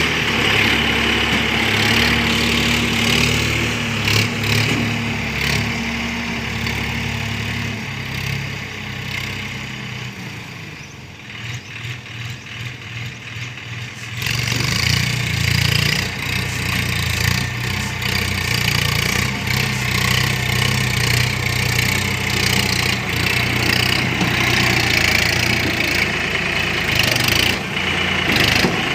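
Swaraj 963 FE tractor's three-cylinder diesel engine running steadily. About a third of the way in it fades down, stays quieter for a few seconds, then comes back up to full level around halfway through.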